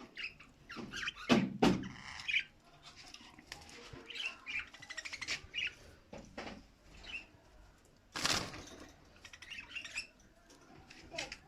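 Small cage birds chirping with many short, high calls, and wings flapping in two louder rustling bursts, about a second and a half in and again around eight seconds.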